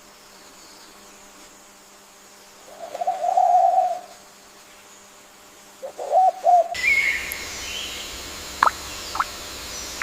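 Bird calls over quiet forest ambience. First a single low held note lasting about a second, then three short low notes. After an abrupt change in the background about two-thirds of the way through, a higher call and two short, sharp, falling chirps follow.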